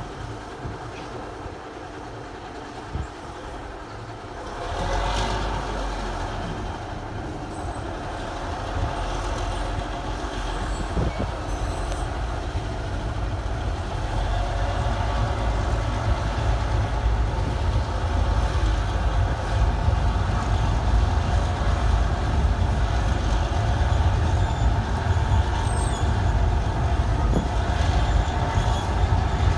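Narrow-gauge train starting to move off. A low rumble comes in about four or five seconds in and grows steadily louder as the train picks up speed.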